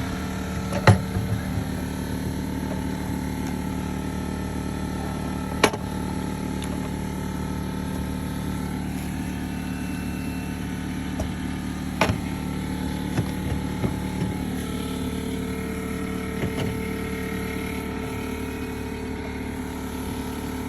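A motor or engine running steadily at an even pitch, with a few sharp knocks, one about a second in and others near the middle.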